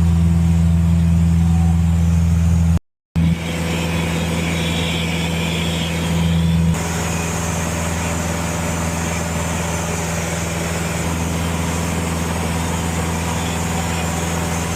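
Cessna 150's four-cylinder Continental O-200 engine and propeller droning steadily in flight, heard from inside the cockpit. The drone breaks off for a moment about three seconds in.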